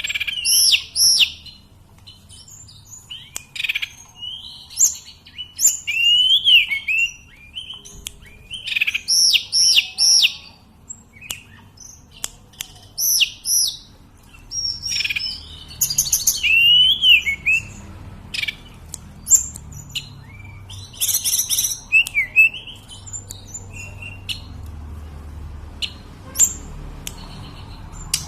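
Male tledekan gunung (sulingan gunung) singing: a loud songbird repeating short phrases of high, clear whistled notes that swoop up and down, with brief pauses between phrases.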